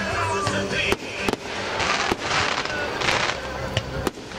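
Fireworks display: several sharp bangs of bursting shells about a second apart, over dense crackling noise.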